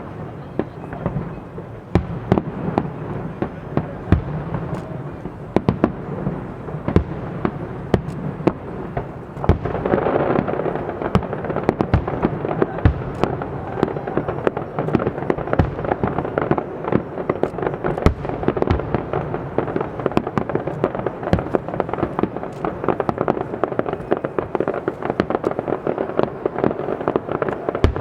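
Fireworks display: a stream of sharp bangs and pops, thickening into a dense crackling barrage from about ten seconds in.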